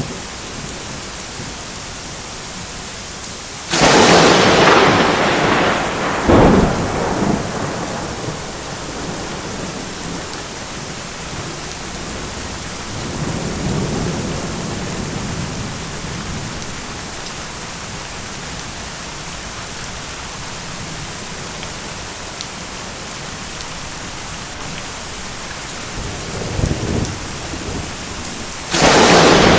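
Steady rain falling, with thunder: a sharp crack about four seconds in that rolls on for a couple of seconds with a second crack soon after, a softer low rumble around the middle, and another sudden loud crack near the end.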